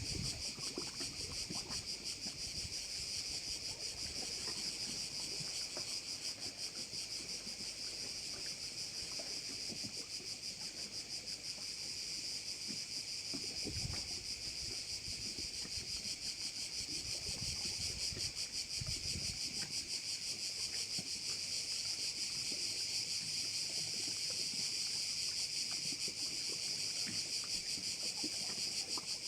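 Dense, steady chorus of singing insects: a fast, even pulsing buzz that never lets up. Faint low rumbles of wind on the microphone come and go in the first two-thirds.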